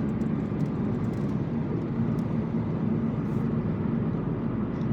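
Steady engine and tyre drone of a car on the road, heard from inside the cabin.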